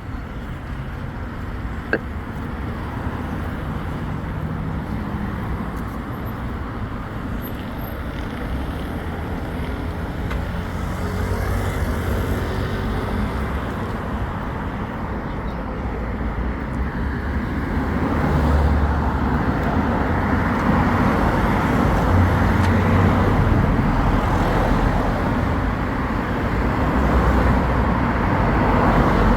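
Road traffic passing on a street: car engines and tyre noise in a steady stream, growing louder about two-thirds of the way through. A single sharp click about two seconds in.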